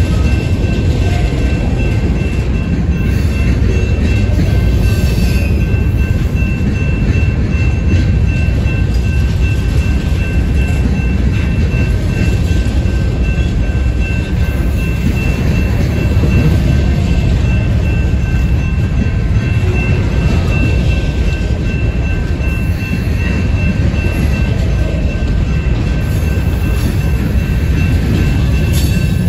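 Covered hopper cars of a Union Pacific grain train rolling past: a steady heavy rumble of wheels on rail, with a thin, high, steady tone running above it.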